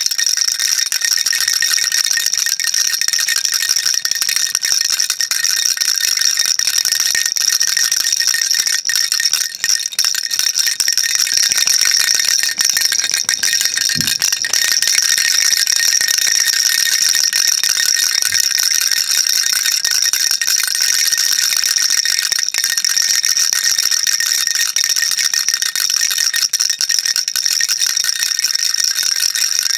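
Baby rattle shaken continuously: a dense, even, high, hissy rattle with no separate strokes.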